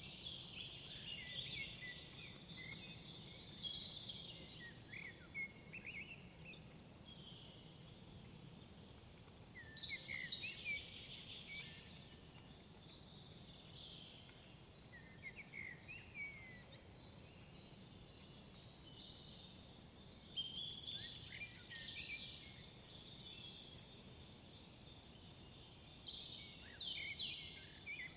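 Several songbirds singing in a forest, phrases coming every few seconds with high thin trills among them.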